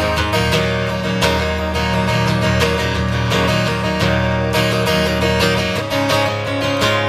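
Live instrumental break in a country-rock song: guitar strummed in a steady, even rhythm over sustained low notes, with no singing.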